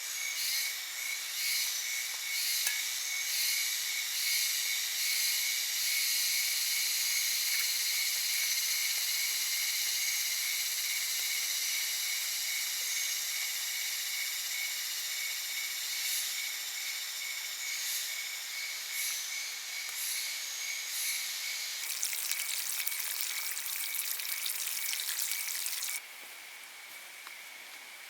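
A dense, high-pitched chorus of insects, with several steady shrill tones and one call pulsing rapidly and evenly. It drops off suddenly about 26 seconds in.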